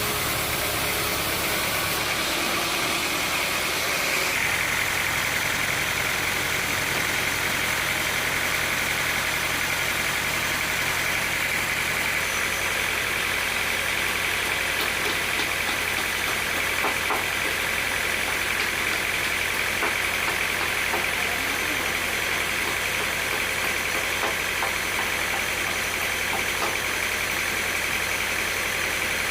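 Sawmill machinery running steadily, a constant mechanical hum with a high whine that strengthens about four seconds in, and a few faint ticks.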